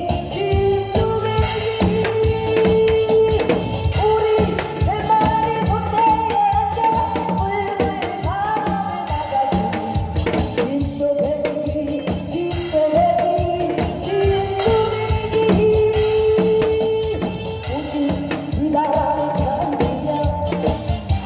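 Korean folk-pop song with a woman singing over a backing band: a drum kit keeps the beat, with cymbal crashes every few seconds.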